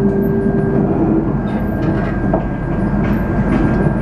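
Interior running noise of a KTM Komuter electric commuter train, heard from inside the carriage: a steady rumble of wheels on the track with a few faint clicks.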